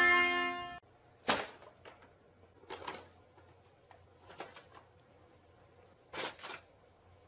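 A held musical chord cuts off under a second in. It is followed by four brief, soft noises spaced a second or two apart against near quiet.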